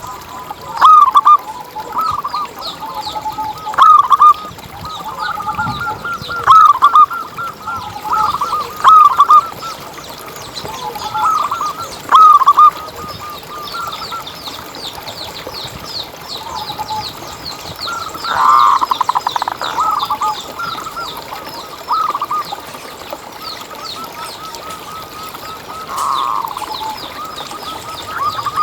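Zebra dove (perkutut) cooing: repeated phrases of quick, rolling coo notes, loudest in the first half. A faster, high-pitched twittering runs through the middle.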